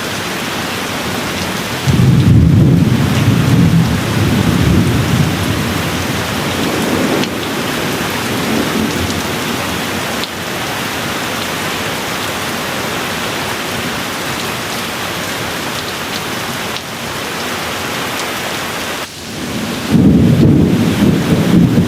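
Steady rain hissing, with two rolls of thunder: one rumbling in about two seconds in and fading away over several seconds, another starting near the end.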